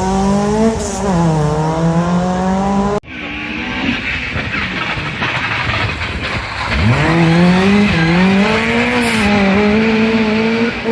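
Rally car engine at high revs, its pitch dipping and rising as it changes gear. After an abrupt cut, another rally car's engine climbs steeply in pitch as it accelerates hard, then holds high revs with small dips.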